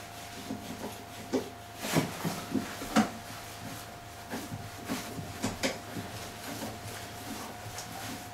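Steel shelf bracket being screwed to a tiled wall: irregular small clicks and knocks of handling and screwing, over a faint steady tone.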